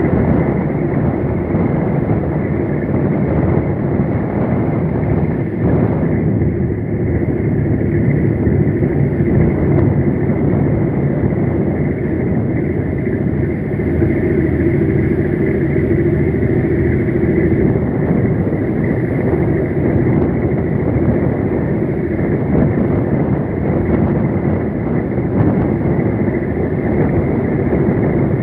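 Steady, unbroken low rumble of vehicle engine noise.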